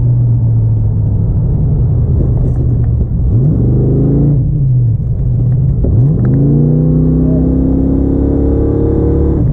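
Car engine under hard acceleration, heard from inside the car: a steady drone that rises in pitch about three seconds in, drops back, then revs up again and holds a higher pitch through the end.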